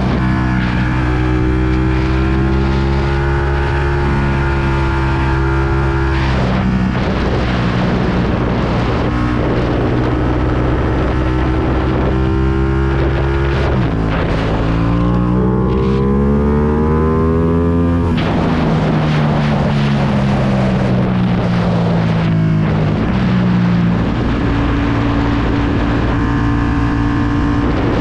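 Ducati Panigale V2's 955 cc V-twin running through a full Akrapovic exhaust while riding, with wind on the microphone. The engine holds a steady note, then about halfway through revs up hard with a rising pitch, drops sharply at a gear change and falls away gradually before settling again.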